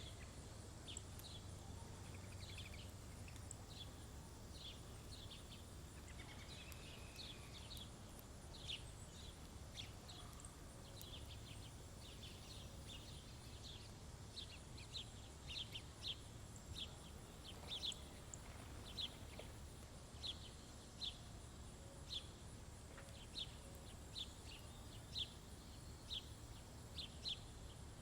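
Small birds chirping at a feeder: short, high chirps repeating throughout, coming faster and more regularly in the second half, over a faint steady low rumble.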